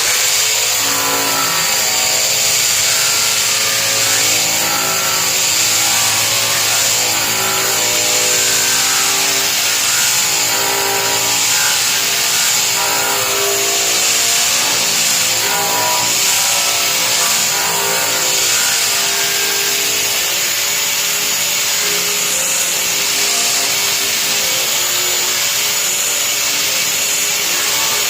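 Electric sander running at full speed, grinding paint and rust off the underside of a steel car hood. There is a steady high whine, with the lower tones wavering as the tool is pressed and moved over the metal.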